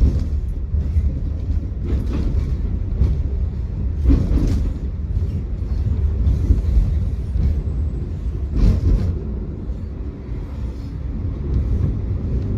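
Tram running along its track: a steady low rumble with a few sharp knocks from the wheels and rails.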